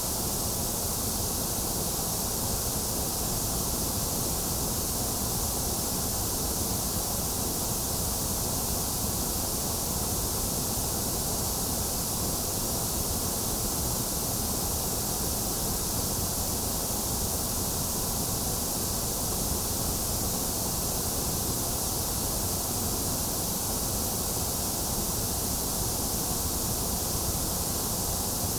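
Steady synthetic white noise: an even, unchanging hiss with no breaks or changes, strongest in the high hiss and the low rumble.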